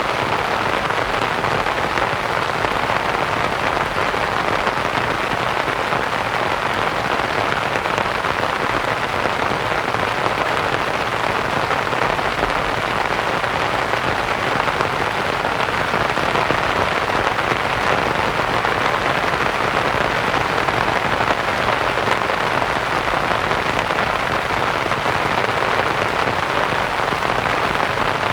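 Steady rain falling on a canvas tent, blended with a continuous hiss of white noise.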